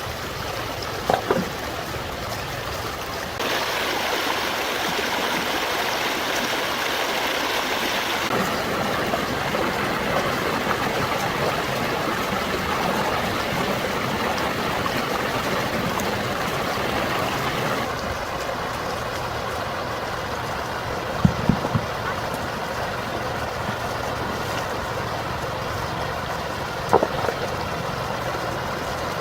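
Steady rushing water of a stream, changing abruptly in level and tone several times, with a few short knocks about a second in, about two-thirds through and near the end.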